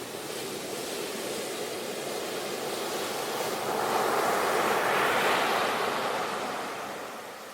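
Sea waves breaking on a shore: a steady wash of surf that swells into a louder breaking wave a few seconds in, then recedes near the end.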